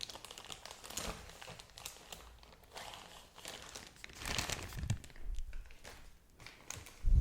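Crinkling and rustling of packaging handled close to the microphone, in irregular bursts, with a soft thump near the end.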